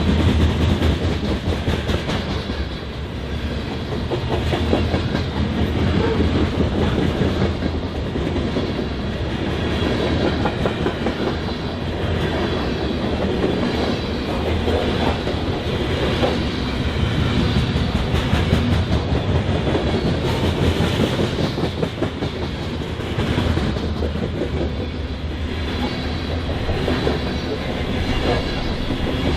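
BNSF freight train cars rolling past, a steady rumble with the wheels clicking rapidly over the rail joints.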